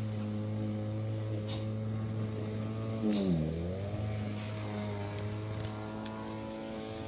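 Small engine running steadily, its pitch dipping sharply and coming back up about three seconds in.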